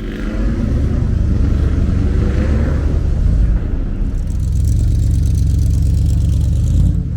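Car engine running loud and deep-toned, its pitch shifting in the first few seconds, then holding steady.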